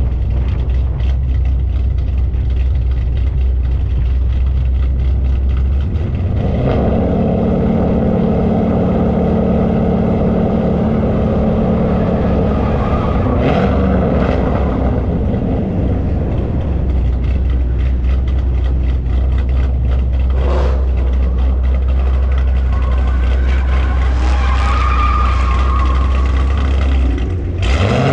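Car V8 engines running with a steady low rumble. The engine note thickens about six seconds in and swings briefly in pitch a couple of times.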